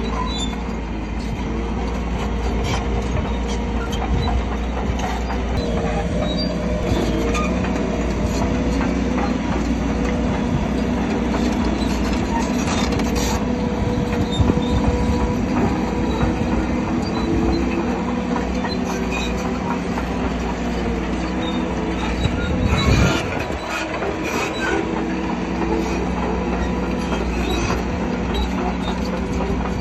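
Crawler bulldozer working: its diesel engine running steadily under the clanking and squealing of steel tracks, with a louder knock about three quarters of the way through.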